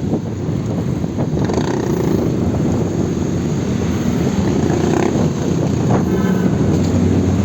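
Wind rushing over the microphone of a moving bicycle, mixed with passing motor traffic; a vehicle engine hums faintly in the latter half.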